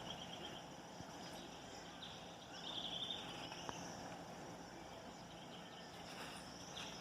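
Faint outdoor background with a few short, high chirring trills from insects such as crickets, the clearest about halfway through.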